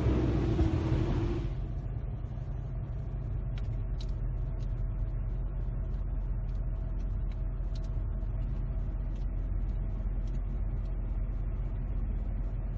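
Car engine idling as a steady low rumble, heard from inside the car, with a hiss that stops about a second and a half in and a few faint ticks.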